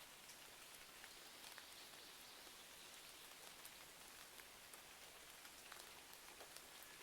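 Faint, steady rain hiss with scattered small clicks.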